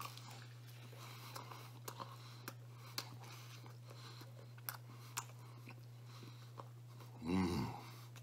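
A man chewing pizza crust dipped in garlic butter sauce, with small wet mouth clicks and smacks, then a brief voiced "mmm" about seven seconds in. A steady low hum runs underneath.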